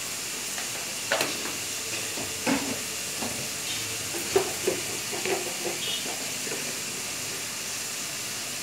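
Chopped onion and carrot frying in oil in an aluminium pan, a steady sizzle, with several short clinks and knocks of utensils against the pan.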